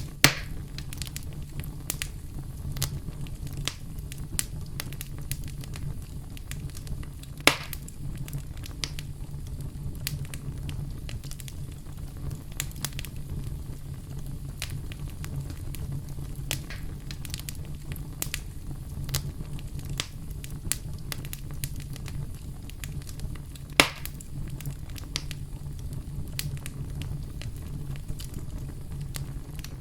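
Wood fire crackling: a steady low rumble of burning with frequent small snaps, and three louder pops, just after the start, about a quarter of the way through and about four-fifths of the way through.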